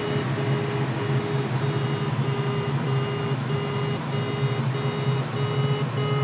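Glider's audio variometer beeping steadily, about one and a half short beeps a second at a steady pitch: the tone that signals the glider is climbing in wave lift. A steady low hum runs underneath.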